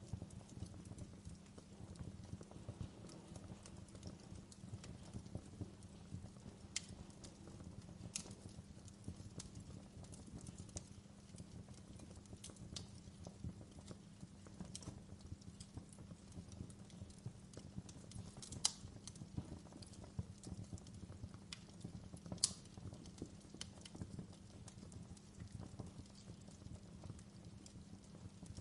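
Wood fire burning with a dense, soft low crackle, broken by sharp pops every few seconds; two louder pops come about two thirds of the way through.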